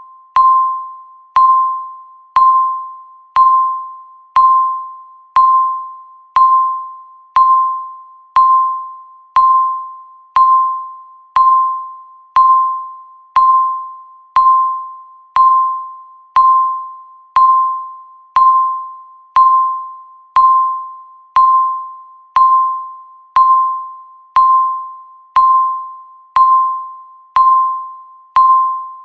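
Countdown timer's electronic tick-beep, a single bell-like tone sounding once every second, each struck sharply and fading away before the next.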